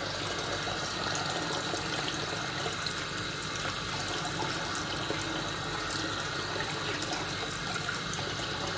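Tap water running steadily into a sink while raw chicken pieces are rinsed, with faint small clicks and splashes of handling.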